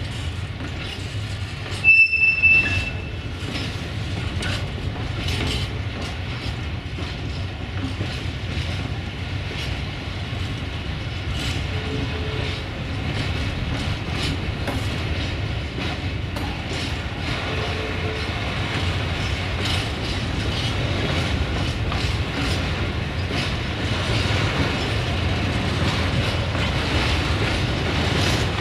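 Grain hopper wagons of a freight train rolling past, their wheels clicking over rail joints over a steady rumble. About two seconds in comes a brief high-pitched wheel squeal, the loudest sound.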